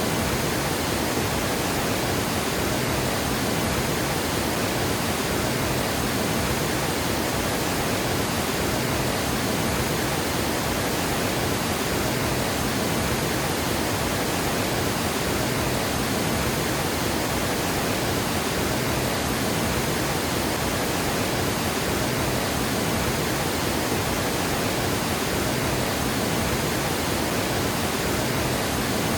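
Water pouring over a dam spillway in a steady, unbroken rush, a dense even roar of falling water with no pauses.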